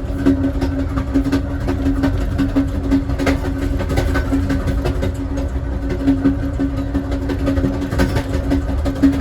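Steady rumble of a passenger rail car rolling along the track, heard from inside the last car, with a constant hum and scattered light clicks and rattles.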